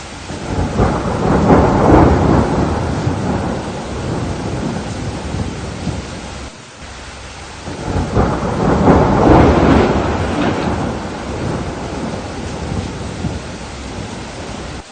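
Two long rolls of thunder over steady rain. The first builds about a second in and dies away midway; the second builds a couple of seconds later and cuts off suddenly at the end.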